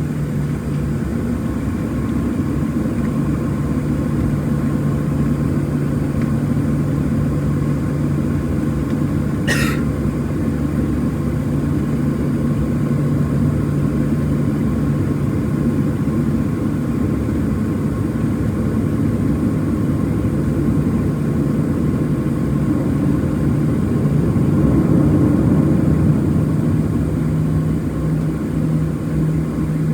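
Cabin noise of a Boeing 737-700 with its CFM56-7B turbofans running steadily, a constant low hum under an airy rush. It swells slightly about three-quarters of the way through, and a single brief click comes about ten seconds in.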